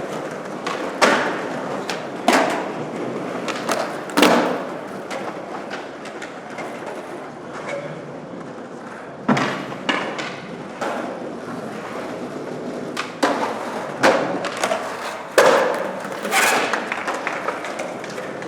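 Irregular thuds and knocks, about a dozen spread unevenly, over a steady noisy background.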